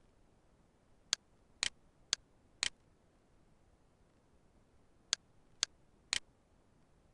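Computer mouse clicking: four sharp clicks half a second apart, a pause, then three more at the same pace.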